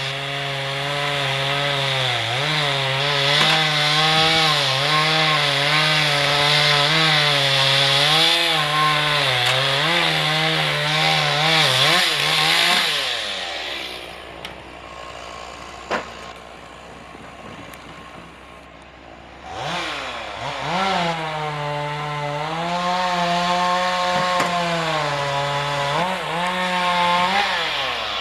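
Two-stroke chainsaw cutting through wood, its engine pitch wavering up and down as it loads in the cut. It eases off to a lower, quieter running about halfway through, then goes back into the wood for a second cut near the end.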